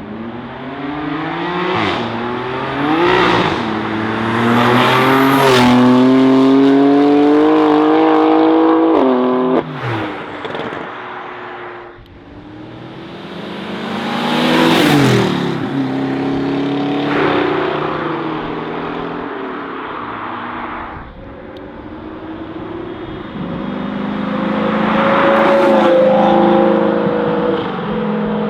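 Sports car engines accelerating past the roadside: a long rev climbs in pitch for several seconds and cuts off sharply near ten seconds in, another car passes with its pitch falling about fifteen seconds in, and a further engine revs up and holds near the end.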